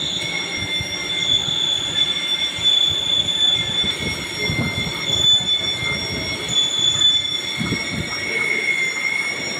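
Lathe running with a steady high-pitched squeal: several held tones over a rough, uneven rumble.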